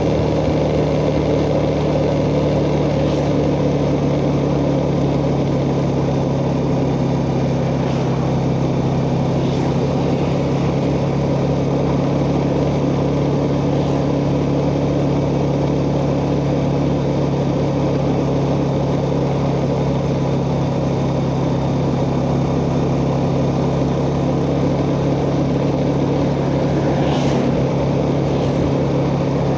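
Yamaha Jupiter Z underbone motorcycle's single-cylinder four-stroke engine running at a steady pace while being ridden, heard from the rider's chest, with road and wind noise around it.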